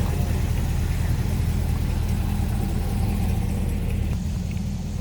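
A car engine idling with a steady, deep note and even firing pulses; the note shifts about four seconds in.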